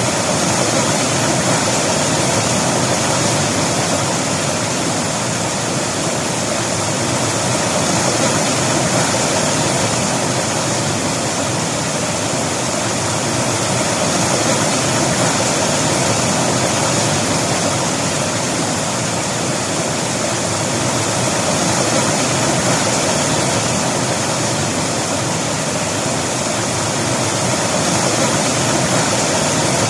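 River water rushing over rocks: a steady, dense rush.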